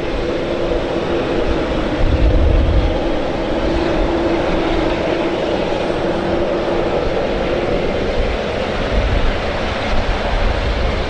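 Airliner jet engines running, a steady rushing noise with a held low hum that fades out about eight seconds in, over a gusty low rumble.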